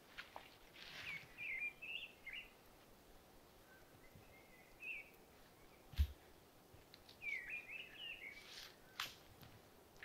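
A songbird singing short, warbled phrases, one burst of song about a second in and another about seven seconds in, over a quiet forest background. A few sharp clicks break in, the loudest a click with a low thump about six seconds in.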